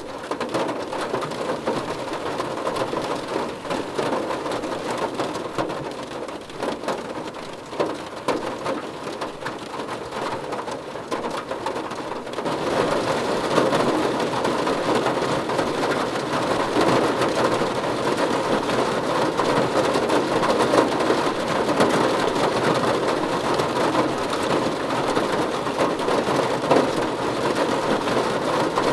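Steady rain falling, a dense even patter that becomes noticeably louder and fuller about twelve seconds in.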